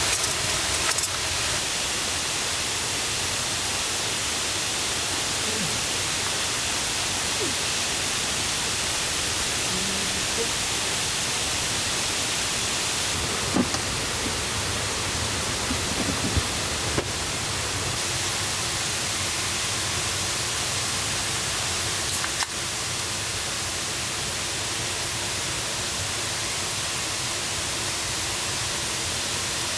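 Forest waterfall and river rushing with a steady, even hiss, the stream swollen and loud after rain. A few small knocks sound over it, near the start, in the middle and about two-thirds of the way in.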